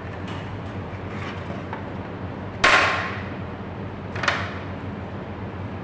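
Two sharp knocks with a brief ringing decay, the first about two and a half seconds in and the louder, the second over a second later, over a steady low hum.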